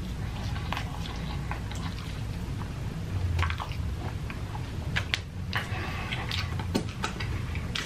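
Close-up wet chewing of a cheese-sauce-covered burger, with irregular sharp mouth smacks and squelches throughout.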